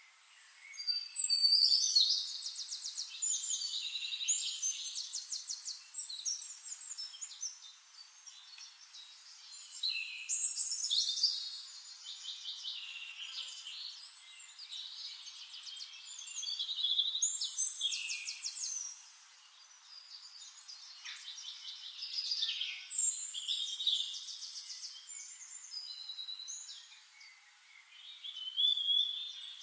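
A songbird singing long, varied phrases of rapid trills and warbles, five phrases in all with short pauses between them.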